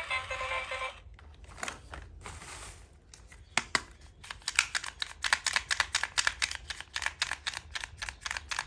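Background music stops about a second in. Hands then handle small plastic toy pieces, and about four seconds in a fast run of light clicks and taps begins, about five a second.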